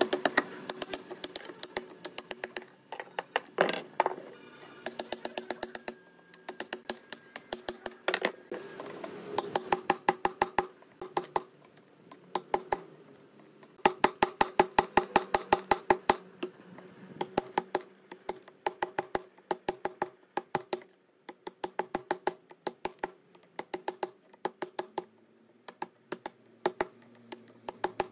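Rapid metallic clicking from hand-tool work on a metal gearbox, in bursts of a couple of seconds at about eight to ten clicks a second with short pauses, each click carrying a ringing metal tone.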